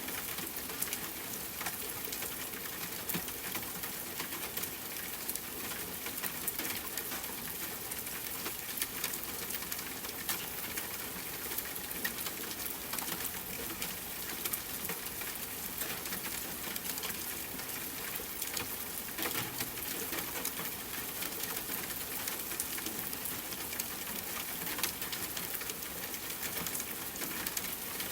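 Rain falling on a tent, with a campfire crackling: a steady hiss of rain dotted with many small sharp ticks and pops.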